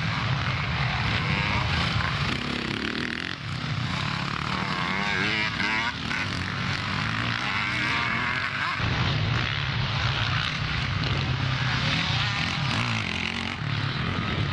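Motocross bikes racing, their engines revving hard, with the engine pitch rising and falling as the bikes accelerate and shift through the middle of the stretch.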